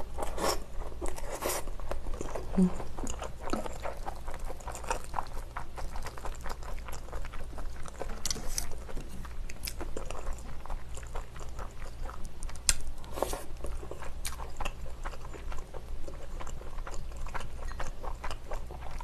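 Close-miked eating: a person chewing mouthfuls of rice and Korean side dishes, with irregular sharp clicks and mouth sounds throughout.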